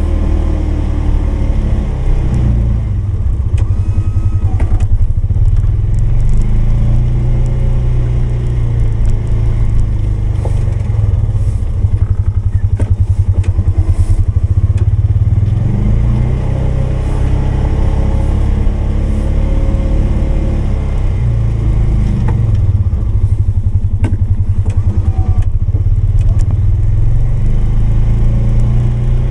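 Polaris 570 utility vehicle's single-cylinder engine running under load while plowing snow with a front blade, its speed rising and falling as it pushes, with a few short clatters.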